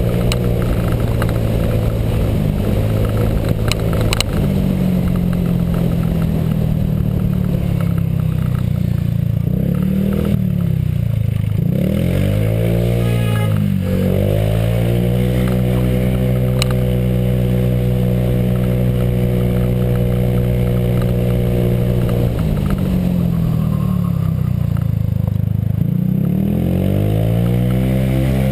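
Honda PCX scooter's single-cylinder four-stroke engine, fitted with a J.Costa variator, running under way on climbs. The engine note drops and rises back up twice as the scooter eases off and picks up again, and holds steady in between.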